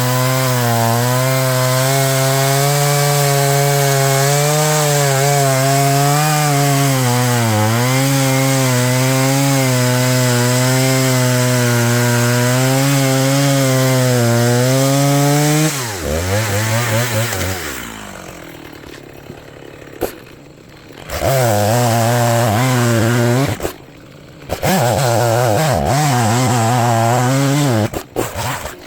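Stihl MS290 chainsaw at full throttle cutting through a log for about fifteen seconds, the engine note wavering under load. It then drops to idle as the cut finishes and is revved up twice more for shorter bursts.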